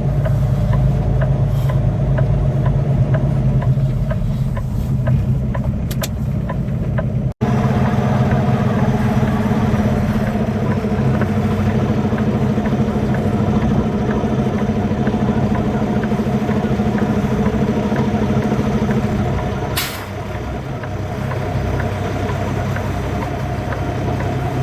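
Semi truck's diesel engine running steadily at low revs while backing under a trailer. About 20 seconds in comes a short sharp burst of air, and the engine note settles a little lower afterwards.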